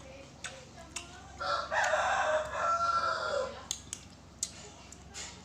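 A rooster crowing once, a call of about two seconds that drops in pitch at its end. A few short sharp clicks come before and after it.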